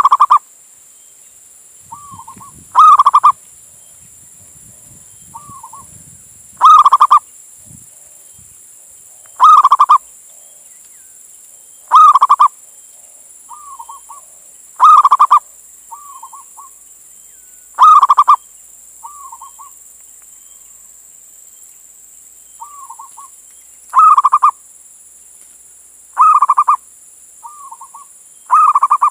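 Male zebra dove (perkutut) cooing, its call repeated about every three seconds. Each phrase is a short, softer note followed by a loud one.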